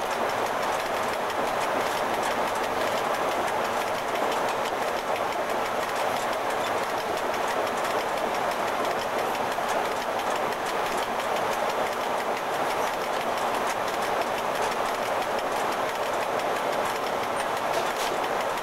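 Cab of an FS E.656 electric locomotive running steadily at speed: an even rumble and rattle of the cab, with faint clicks from the wheels on the track.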